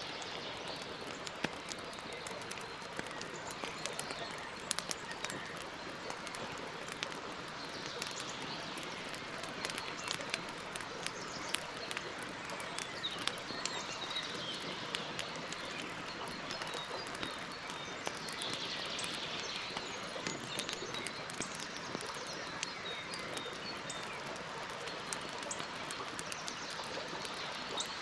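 Campfire crackling: frequent small irregular pops and snaps over a steady hiss, with birds chirping faintly in the background.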